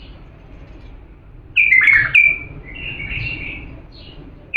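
A bulbul singing: after a quiet start, one loud phrase of quick, sliding whistled notes about a second and a half in, then a second warbling phrase and a faint note near the end.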